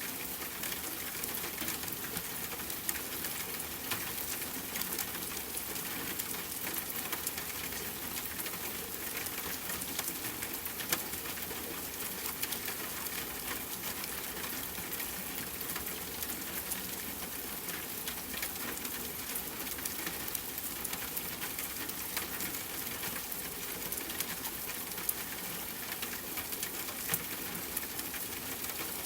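Steady rain pattering on a tent, a dense even hiss of drops, with campfire crackling and a few sharper pops now and then.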